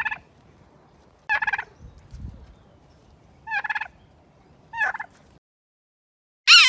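Turkey gobbling: four short gobbles, one to two seconds apart. After a second of silence comes a brief loud, high-pitched sound.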